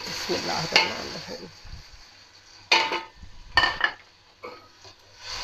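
Chopped tomatoes dropping into hot oil in an aluminium pot, with a burst of sizzling that fades over about a second. Then a perforated steel spatula stirring them, clanking sharply against the pot twice around the middle.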